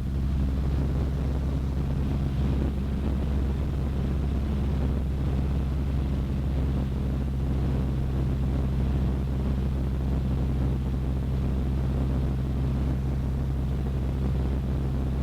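Cessna 152's four-cylinder Lycoming engine and propeller droning steadily in flight, heard inside the cabin as an even low hum.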